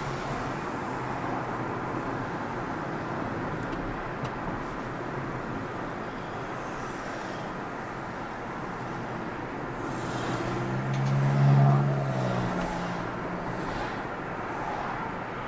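Car driving on the road: steady tyre and road noise, with a deeper engine hum that swells and fades about eleven seconds in.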